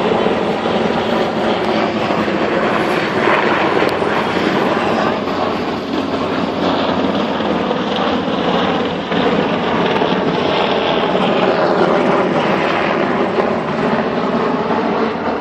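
Marine One, the presidential helicopter, taking off: loud, steady rotor and engine noise.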